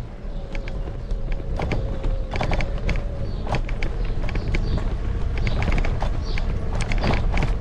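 Wind rumbling on the microphone, with scattered sharp clicks and rattles and a faint steady hum that stops about three seconds in.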